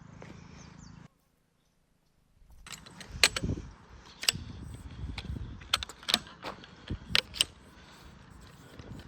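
Sharp metallic clinks and knocks of gear being handled, a dozen or so over about five seconds, following a second of dead silence about a second in.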